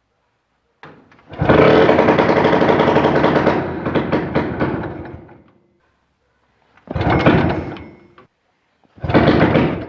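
Rope pull-starting the tractor's small two-stroke pony starter engine: three goes, the first about four seconds long and fading out, the next two short, about a second each.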